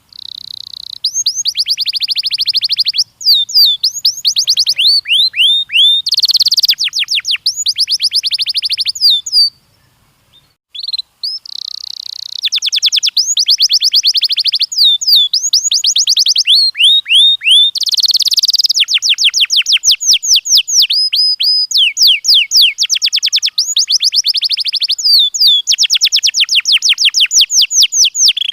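Canary singing loudly: long rapid trills of repeated falling chirps, phrase after phrase, with a brief pause about ten seconds in.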